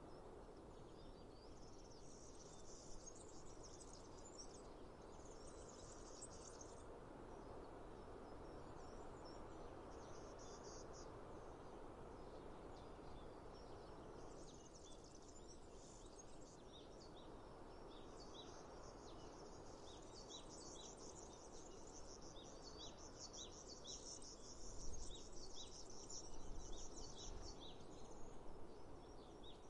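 Faint outdoor nature ambience: a steady hiss with insect trills, then a long run of short, quick high bird chirps through the second half, with a few low bumps near the end.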